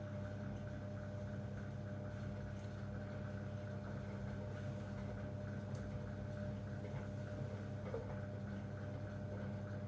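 Zanussi front-loading washing machine running during a 90-degree boil wash: a steady low hum with a faint constant whine above it and a few light ticks.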